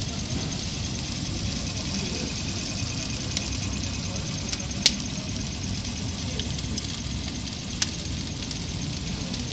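Wood fire under a spit-roasting pig, crackling with a few sharp pops over a steady low rumble and hiss.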